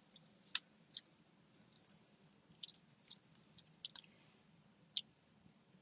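Faint, scattered clicks and ticks, about a dozen short ones, from small paper pieces being handled and pressed down with glue dots.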